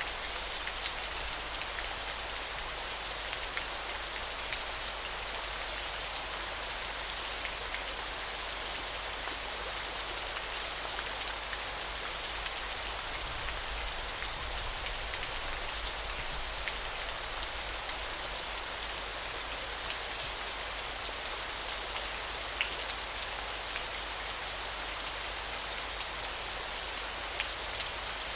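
River water flowing with a steady, even hiss. A high trill comes and goes over it in repeated bursts of one to two seconds.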